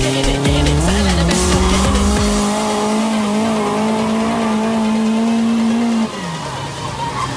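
Toyota AE86 Corolla engine held at high revs through a drift, with tyre squeal. The revs dip and climb about a second in, hold steady, then fall sharply near the end as the throttle comes off.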